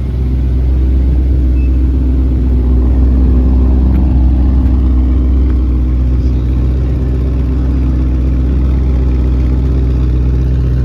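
Motor vehicle engine running steadily close by, loud, with a deep, even drone that swells up at the start and then holds.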